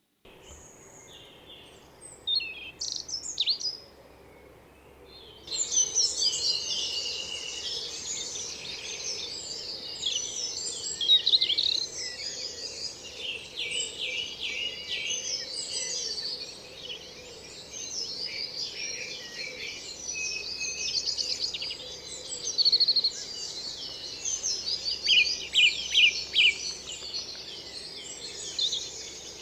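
Dawn chorus in a spring woodland: a few bird calls at first, then from about five seconds in many songbirds singing at once in a dense, overlapping tangle of high warbles and trills.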